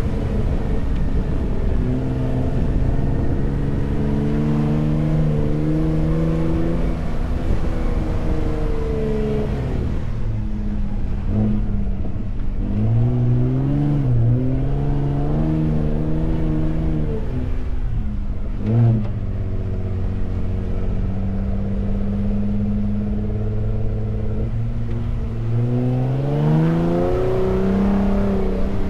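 Ford F-150 Raptor's twin-turbo V6 engine pulling through sand dunes, its pitch rising and falling with the throttle and dropping abruptly at gear changes, over a low rumble from the tyres and body. A single thump comes about two-thirds of the way through, and the engine revs up steeply near the end.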